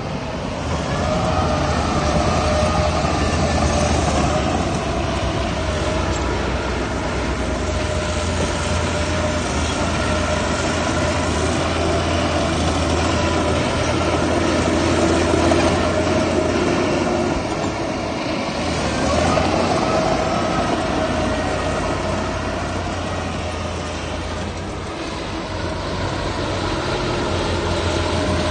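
Heavy diesel earthmoving machinery working under load: a steady low engine note with a whine that rises and falls in pitch.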